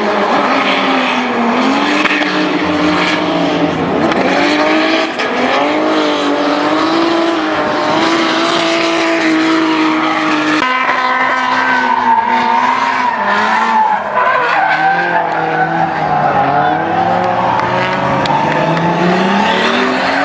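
Drift cars at high revs, engines revving up and falling back over continuous tyre screech from sliding tyres. About ten seconds in, the sound changes abruptly to another pass with the same revving and tyre squeal.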